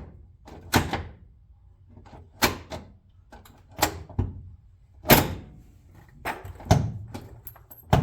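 Console floor shifter lever being moved back and forth through its gear positions, clunking into its detents: about half a dozen separate sharp knocks, spaced a second or so apart.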